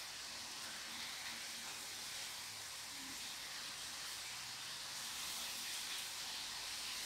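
Steady hiss of fish frying in hot oil, with no separate clicks or knocks standing out.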